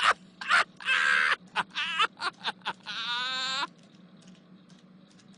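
A voice making short wordless vocal sounds, ending in a drawn-out wavering sound about three seconds in; after it only a faint steady hum.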